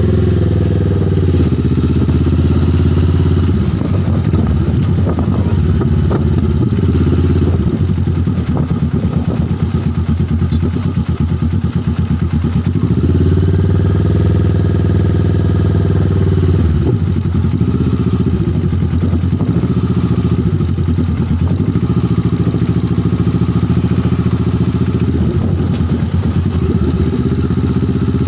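Motorcycle engine running continuously with a heavy low rumble, its pitch rising and falling a few times as it speeds up and slows down.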